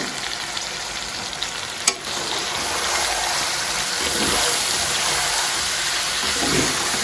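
Chicken, tomatoes and spices sizzling in hot ghee in a cooking pot as they are stirred. There is one sharp click about two seconds in, after which the sizzle grows a little louder.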